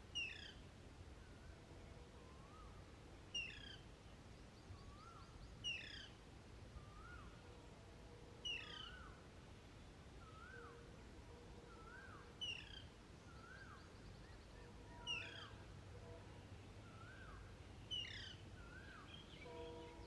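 Bird calling: a short, high call falling in pitch, repeated about every three seconds, with softer rising-and-falling notes between the calls.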